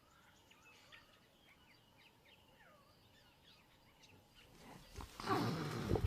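Faint bird chirps and calls in the background. About five seconds in, a loud rough leopard growl starts and keeps building.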